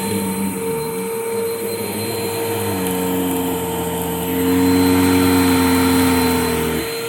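2009 Hoover Mach upright vacuum cleaner running with a steady motor whine. Its hum shifts in pitch about three seconds in and grows louder for a couple of seconds, then the low hum drops away near the end.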